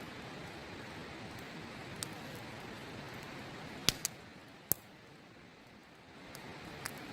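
Wood campfire crackling, with a handful of sharp pops, the loudest pair about four seconds in, over the steady rush of a river.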